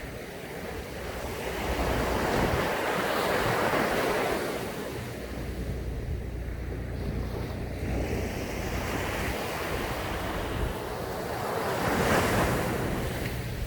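Ocean waves breaking and washing up a sandy beach, two swells of surf, the second cresting near the end. Wind buffets the microphone with a low rumble.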